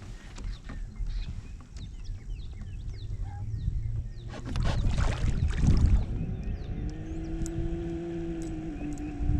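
Outdoor sound on the water: short chirps in the first few seconds, a loud rushing burst about halfway through, then a steady low engine-like hum from about six and a half seconds in.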